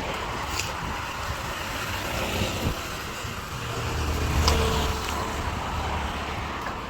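A motor vehicle passing on the road: a low engine rumble builds, is loudest about four and a half seconds in, then fades, over steady outdoor traffic noise.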